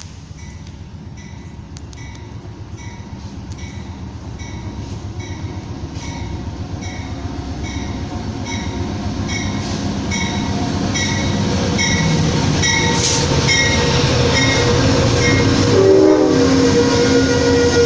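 Train approaching, growing steadily louder, with a bell ringing about twice a second. Near the end the locomotive's horn sounds, a steady chord.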